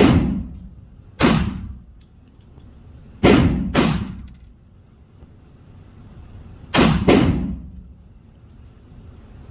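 Six gunshots from a firearm fired at a range target, spaced unevenly, the last four in quick pairs, each a sharp crack with a short echo.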